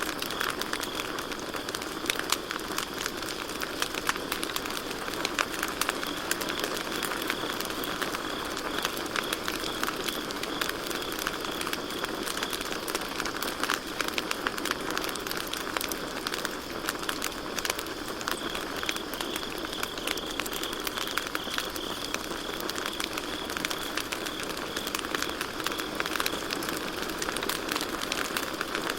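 Campfire crackling and popping in a steady stream of small snaps, with a continuous high chirping trill of crickets behind it.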